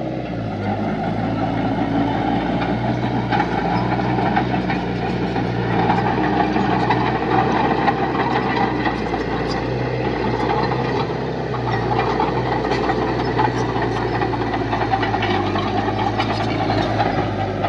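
Diesel engine of heavy earthmoving machinery running steadily, with scattered sharp clanks over it.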